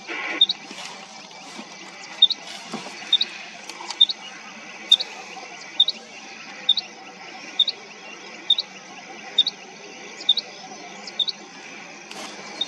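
Rain quail calling: a short, sharp, high note repeated about once a second. The bird is answering a call, as it does in the rainy season while seeking a mate.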